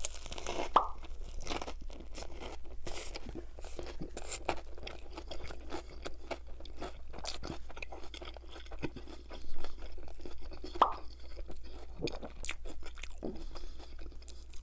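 Close-miked biting and chewing of a chicken Caesar wrap, with a dense run of crisp crunches from the croutons inside it. A louder crunch comes with the bite at the start.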